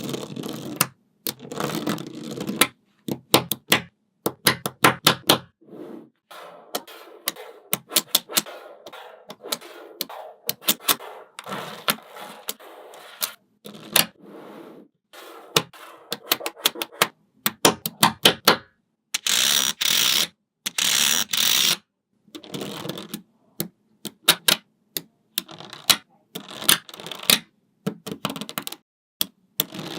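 Small magnetic balls clicking sharply as they snap together, in quick runs of clicks with stretches of rattling as they roll and shuffle against each other. A brighter, hissier rattle lasts about three seconds about two-thirds of the way through.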